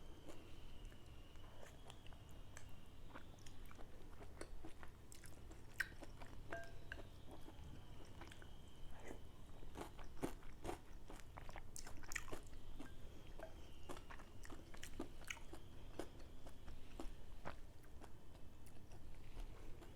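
Close-miked chewing and biting of mohinga, Myanmar fish noodle soup, with irregular crunchy clicks and wet mouth sounds.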